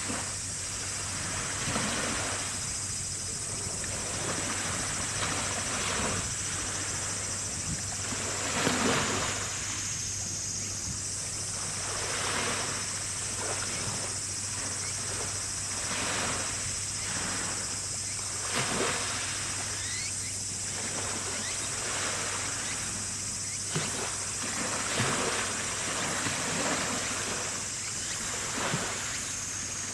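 Water sloshing and wind rushing in soft swells every second or two, over a steady high-pitched buzz and a low steady hum.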